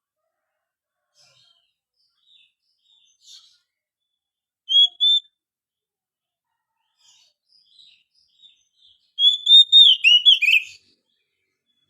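Oriental magpie-robin (kacer) singing: faint scattered chirps, two loud whistled notes about five seconds in, then a quick run of loud whistled notes near the end.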